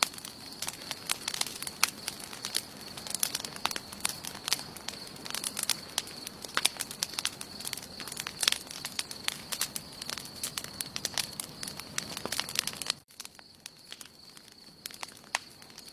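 Wood campfire burning, with dense sharp crackles and pops over a steady high-pitched whine. About thirteen seconds in the sound drops abruptly and the crackling turns quieter and sparser.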